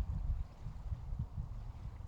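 Wind buffeting the microphone: an uneven, gusting low rumble that swells and dips.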